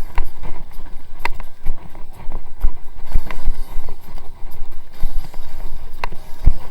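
Rumble of wind and road noise with irregular knocks and rattles as a small electric vehicle rides over a rough, bumpy road.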